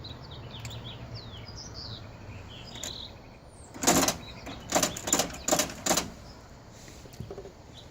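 1960 Ford Thunderbird V8 running low and dying out about two and a half seconds in, with birds chirping. Then five loud, short, sharp bursts in quick succession.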